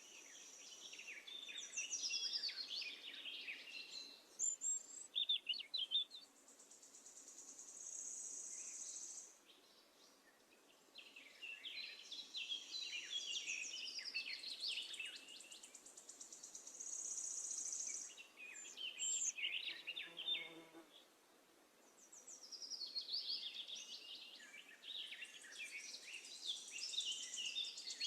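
A songbird singing long, repeated song phrases: quick chattering notes mixed with high, drawn-out buzzy trills, each phrase lasting several seconds with short pauses between.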